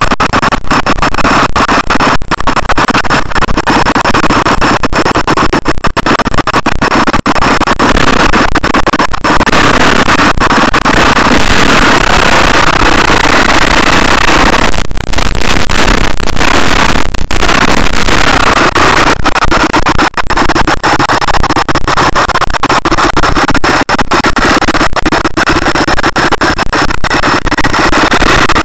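KTM dirt bike engine running hard while climbing a dirt slope, recorded from a camera on the bike. The sound is loud and distorted, with many brief dropouts.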